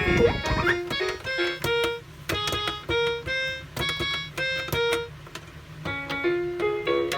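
A melody of short, separate electronic piano-like notes, with a couple of low thumps in the first half-second.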